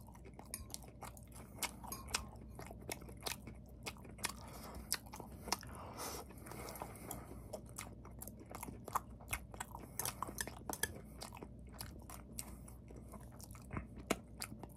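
A person chewing pan-fried, egg-battered sausage slices, some of them burnt: faint, irregular, closely spaced clicks of chewing and biting, over a low steady room hum.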